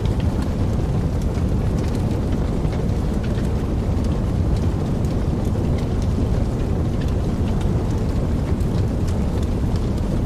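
Wood fire burning in a fireplace: a steady low rumble from the flames with frequent small crackles and pops scattered through it.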